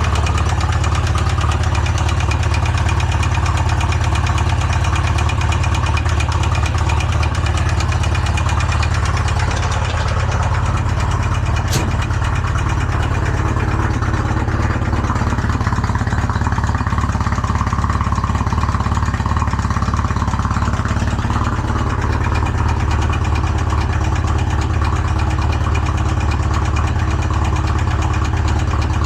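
Polaris RZR utility-vehicle engine idling steadily on Lucas oil. Its rod bearings are damaged and partly seized to the crank after it lost oil pressure, and it doesn't sound good. One sharp click about twelve seconds in.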